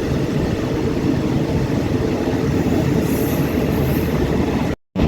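Passenger train running along the track: a steady rumble of wheels and carriages that cuts out abruptly for a moment near the end.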